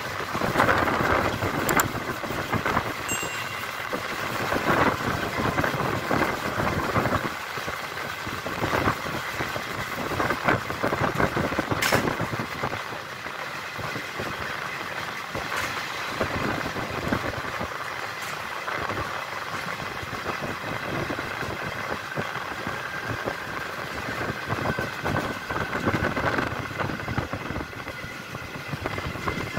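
Passenger train running along the track: a steady rumble and rattle of the coaches with scattered clicks and knocks, and one sharper crack about twelve seconds in.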